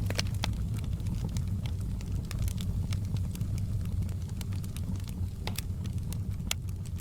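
Wood fire burning in a fireplace, heard close up: a steady low rumble of flame with scattered sharp crackles and pops, a few louder ones just after the start and near the end.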